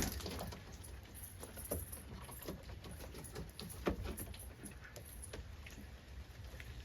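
Light rain beginning to fall, with sparse raindrops pattering on the pigeon loft as scattered, irregular ticks and taps.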